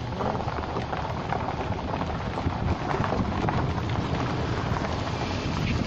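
Wind buffeting the microphone: a steady rushing noise with a heavy low rumble, growing slightly louder over the few seconds.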